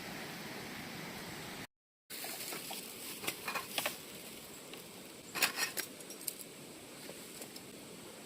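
Steady background noise broken by a brief dropout about two seconds in, then two short clusters of light clicks and clinks from small hard objects being handled, around three and a half and five and a half seconds in.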